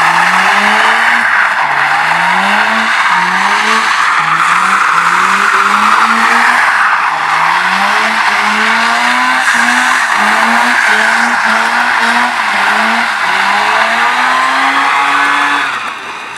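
Mazda RX-8 revving up and dropping back again and again, about once a second, while its rear tyres squeal without a break in a sustained slide, as when swinging donuts.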